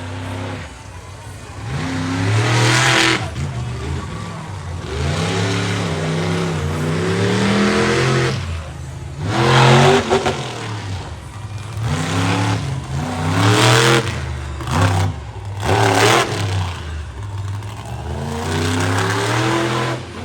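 Monster truck engine revving hard and easing off again and again, its pitch rising and falling with sharp throttle surges several times.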